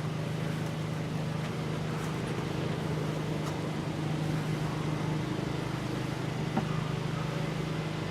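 Honeybees buzzing in a steady, unbroken hum around an opened top bar hive.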